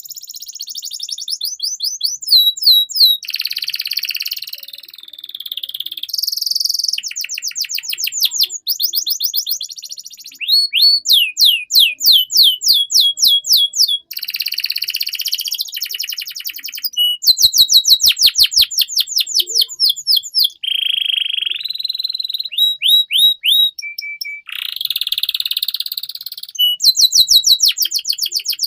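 Domestic canary singing continuously: rapid trills of repeated down-sweeping notes, buzzy rolls and high whistled phrases, the song changing phrase every second or two.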